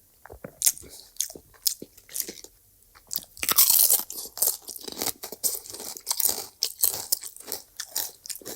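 Close-up eating sounds: a mouthful being crunched and chewed, with rapid wet mouth clicks and crackles, and one louder burst of noise about three and a half seconds in.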